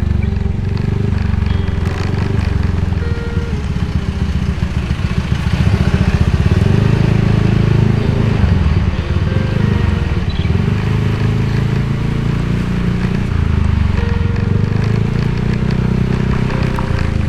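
Motorcycle engine running while riding, with wind and road noise; the engine note shifts in steps and is a little louder around the middle.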